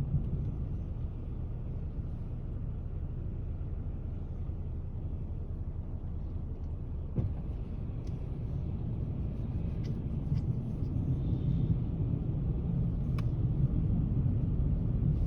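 Car driving, heard from inside the cabin: a steady low rumble of road and engine noise that grows a little louder over the last few seconds, with a single sharp click about seven seconds in.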